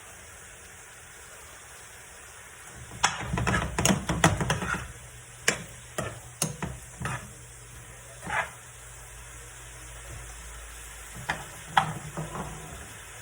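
Chicken frying in a pan with a steady sizzle while a cooking utensil stirs it, knocking and scraping against the pan in a quick flurry about three seconds in, then in a few separate knocks later.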